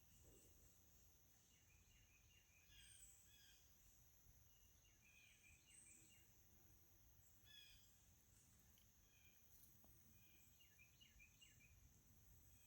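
Faint birdsong: small birds giving short chirps and twitters in little clusters every second or two, over a steady high hiss.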